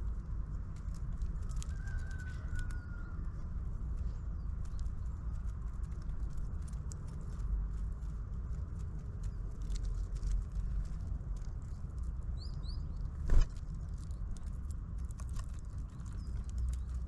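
Birds at a feeder: scattered light pecking taps, a short falling whistle about two seconds in, and a few small high chirps, with one sharp loud knock about thirteen seconds in. A steady low rumble runs underneath.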